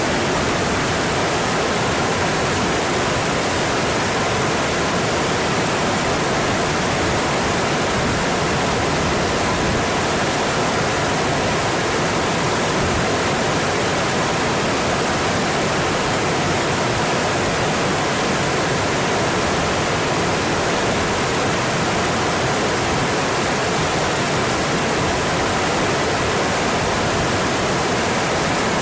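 Mountain stream, water rushing and splashing over rocks in a steady, unbroken wash.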